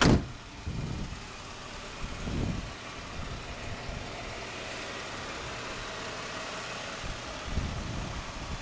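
Jeep Wrangler's 3.6-litre V6 idling steadily, with a sharp loud knock right at the start and a few low thumps.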